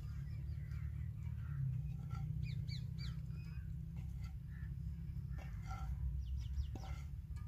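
Birds chirping: a few quick high calls about two and a half seconds in and again near the end, with scattered shorter calls between, over a steady low background rumble.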